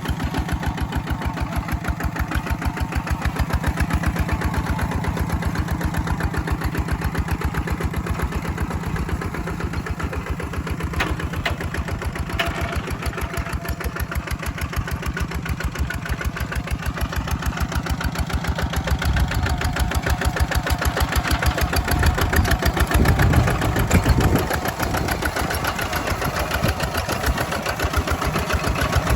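Walking tractor engine running steadily with a fast, even chugging while it ploughs a rice field. It grows somewhat louder and heavier from about two-thirds of the way in.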